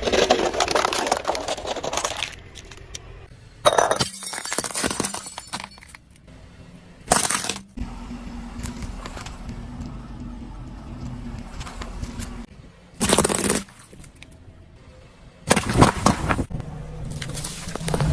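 Objects being crushed and breaking under a car's weight: several separate bursts of crunching and cracking, the longest in the first two seconds, with a steady low hum between them in the middle.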